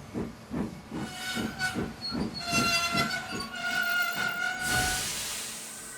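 Cartoon steam locomotive sound effects: the engine chuffing at about four beats a second, with a long steady high tone over it, then a loud hiss of steam released about five seconds in.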